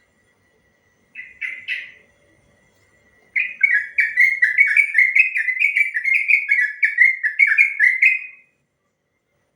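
Yellow-vented bulbul singing: three short notes, then a long rolling run of quick falling whistled notes, about three to four a second, that stops about a second before the end. A faint steady high tone sounds under the first few seconds.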